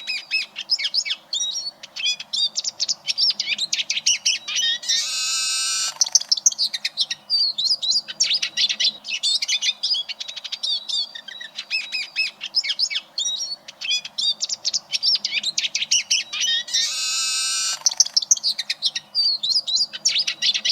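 Eurasian siskin singing: a fast, run-on twittering song, broken twice by a long buzzy wheeze about a second long.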